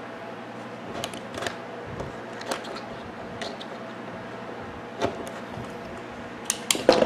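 Knife cutting the ends of the copper winding on a microwave magnetron cooling-fan motor: scattered short clicks and scrapes, roughly one a second, over a faint steady hum.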